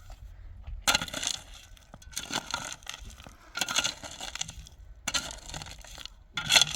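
Shovel scraping into and tipping gritty building material such as gravel or sand, five crunching strokes about one and a half seconds apart.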